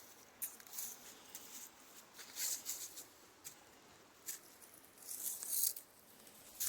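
Faint, irregular crunching footsteps of a hiker in sandals on loose ground, a few steps at a time with pauses between.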